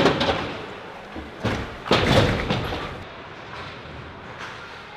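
Impacts against hockey rink boards and glass, echoing in the arena: a sharp bang right at the start, then a louder, longer crash about two seconds in.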